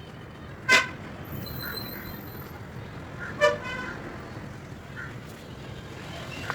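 Two short, sharp horn-like toots about two and a half seconds apart, with faint brief chirps between them over a steady background rumble.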